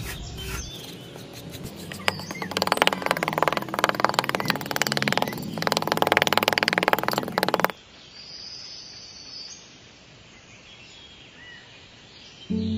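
A small metal trowel scraping and smoothing dry sand in quick, gritty strokes, with faint bird chirps behind. The scraping cuts off suddenly about eight seconds in, leaving faint chirps, and music starts near the end.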